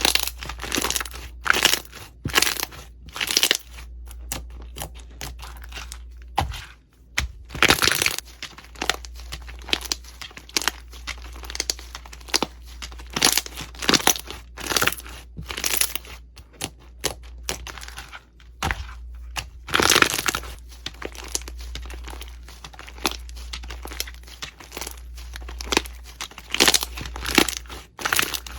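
Crunchy slime being squeezed and pressed by hand, giving irregular crackling and crunching pops several times a second, over a low steady hum.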